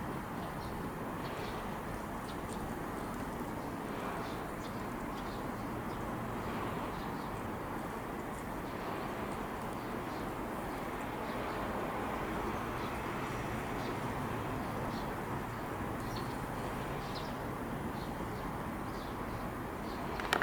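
Steady outdoor background rumble like distant traffic, with faint, short, high bird chirps scattered throughout. A couple of sharp knocks right at the end.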